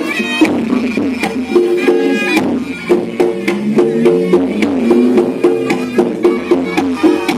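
Reog Ponorogo ensemble music: a slompret (reed trumpet) playing a held, wavering melody over a steady stream of drum and gong-chime strikes.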